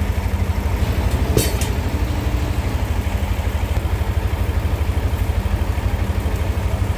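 Engine of a homemade sawmill running steadily, with a rapid even pulsing. There is a brief clatter about a second and a half in.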